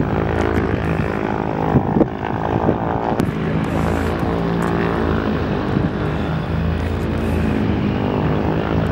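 Partenavia P68's twin piston engines and propellers running with a steady, loud drone, heard inside the cabin.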